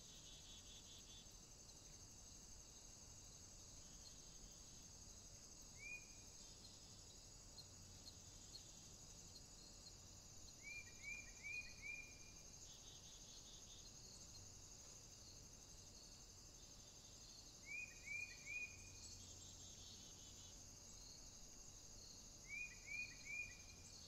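Faint steady high chirring of insects, with a small bird giving short clear call notes: one single note, then three runs of three or four notes about two or three a second.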